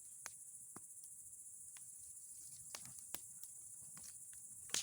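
Bonfire crackling, with sharp irregular pops from the burning wood and pine cones, the loudest just before the end, over a steady high chirring of crickets.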